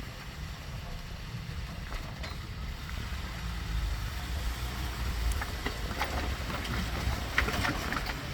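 Jeep engine running at low revs as it crawls up a rocky ledge, a steady low rumble, with scattered clicks and crunches growing denser in the second half.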